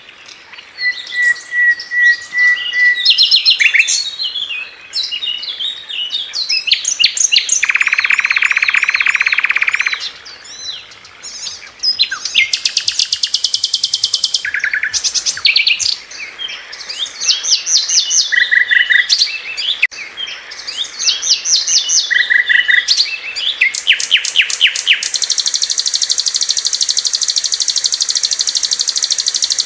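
A sikatan londo flycatcher singing an energetic, varied song: short runs of quick repeated chirps, fast rattling trills and a buzzy trill, ending in a long sustained trill near the end.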